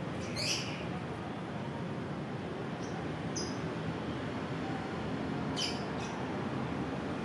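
Olive-backed tailorbird giving sharp, high 'piw' calls: a loud one about half a second in, a few thinner short notes around three seconds, and another loud pair near six seconds, over a steady background hum.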